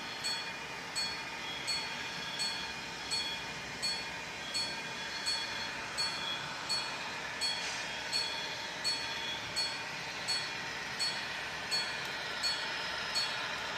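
Model railway level crossing warning bell ringing steadily, about one and a half dings a second, over the continuous running sound of a model train.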